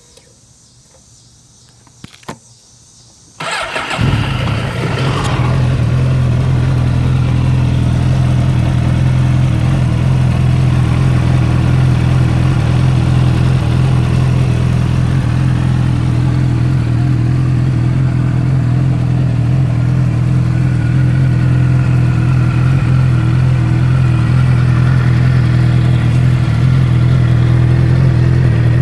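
Suzuki GSX-R motorcycle engine cold-started. After a click it cranks briefly at about three and a half seconds, catches with a short flare of revs, and settles into a steady idle.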